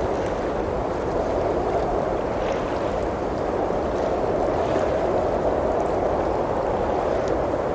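Steady rushing of a blizzard's howling wind, with faint, scattered pops of a wood fire crackling.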